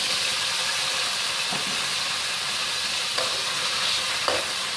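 Marinated chicken sizzling in hot oil in a wok, a steady hiss, with a few light knocks of a metal spatula against the wok as it is stirred.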